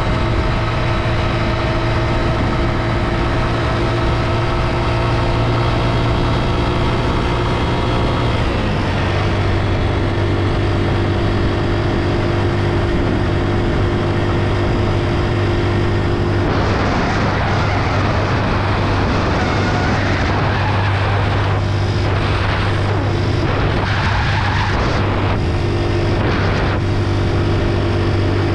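A tricycle's motorcycle engine running steadily under way, heard from on board. The engine note drops slightly about eight seconds in, and a rushing hiss comes and goes through the second half.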